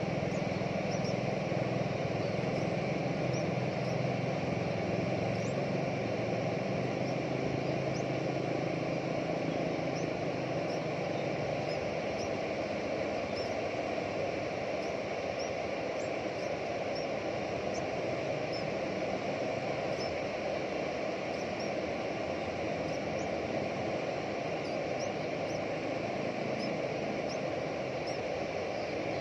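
Steady outdoor background noise with a low engine-like hum that fades out about twelve seconds in, and faint short high chirps scattered throughout.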